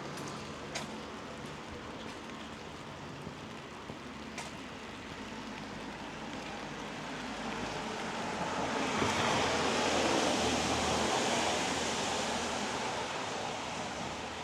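Steady light rain hiss on the street, with a couple of faint sharp ticks in the first half. About two-thirds of the way through, a car passes on the wet road, its tyre hiss swelling and then fading.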